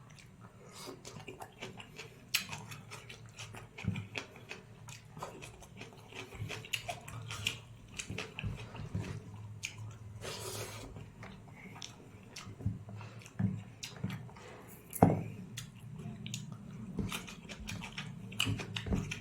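A person chewing and eating dal, rice and roti close to the microphone: irregular wet mouth clicks and smacks, over a low steady hum. One louder knock stands out about three-quarters of the way through.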